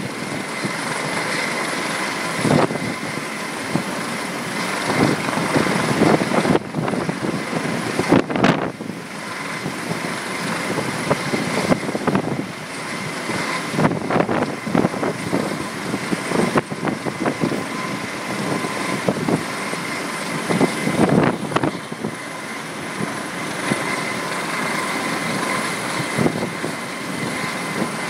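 Medical helicopter running close by: a dense, steady rotor and engine noise with a faint high whine, broken by irregular gusty surges.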